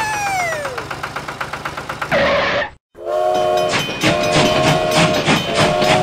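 Toy steam locomotive sound effects. First a falling whistle tone over fast ticking, then a short hiss of steam. After a sudden break, a steady whistle chord with rhythmic chugging.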